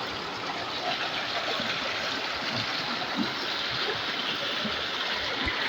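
River water flowing steadily past, an even rushing with no other event standing out.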